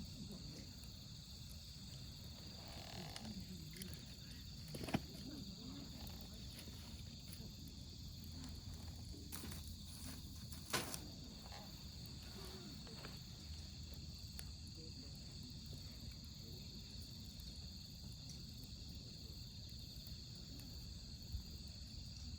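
Wood campfire burning in a fire pit, with a low rush of flame and occasional sharp pops from the wood, the two loudest about five and eleven seconds in. Behind it a steady high chorus of autumn crickets and other insects.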